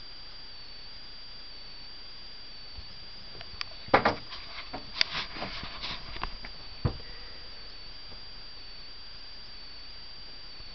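A short flurry of sharp knocks, clicks and scuffs starting about four seconds in and ending with a single knock a few seconds later, over a steady hiss with a faint high whine.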